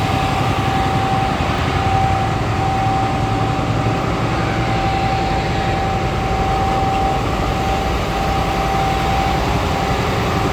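Steady mechanical drone of running machinery, a low hum under a thin, steady whine that fades out near the end.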